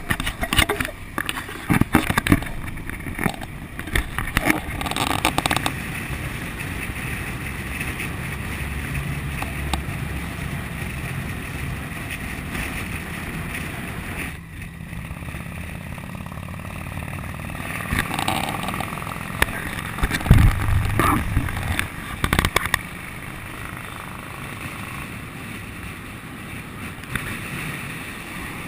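Honda VFR800's V4 engine running on the move, with wind rushing and buffeting over the microphone.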